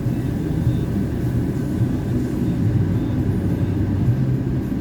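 Steady low mechanical rumble with a faint hum in an automatic car wash, between the rinse and the dryer.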